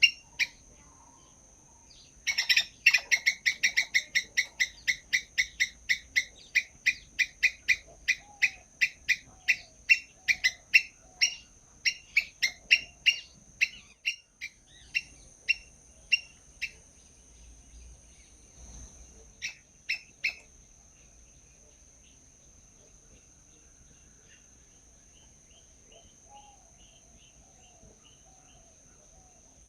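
Small birds calling in a fast run of short, sharp repeated chirps, about four a second. The run starts a couple of seconds in, thins out and mostly stops about two-thirds through, and a few faint chirps come near the end. A steady high-pitched whine runs underneath.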